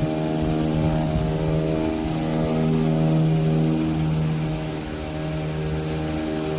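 Greenworks 1800 psi electric pressure washer running steadily under load, a constant motor-and-pump hum with the hiss of water spray, while feeding the 11-inch surface cleaner.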